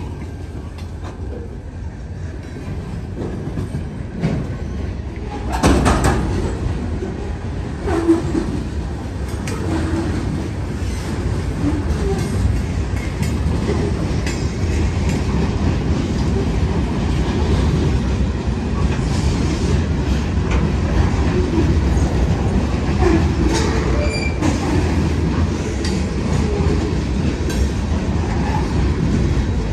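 Wheeling & Lake Erie freight train rolling past, its wheels clattering on the rails under a steady rumble, with occasional faint wheel squeal. The train grows louder over the first several seconds, with two sharp clanks about six and eight seconds in.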